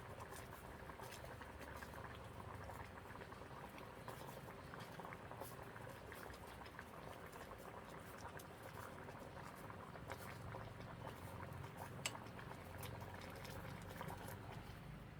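A pot of liquid bubbling steadily at the boil, with scattered light ticks.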